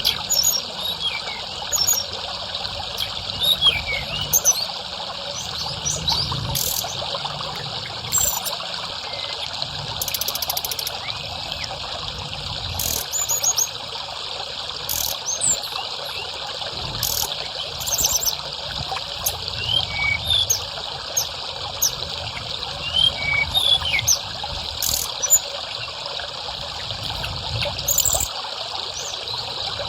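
Water trickling steadily, with a small songbird's short high chirps and call notes scattered over it throughout.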